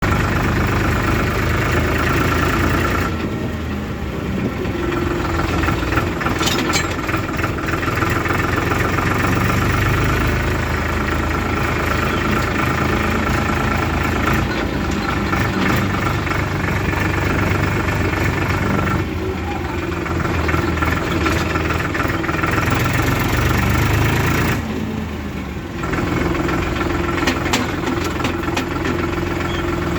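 Diesel engines of a backhoe loader and farm tractors running steadily, with a few sharp clanks. The sound changes abruptly about three times.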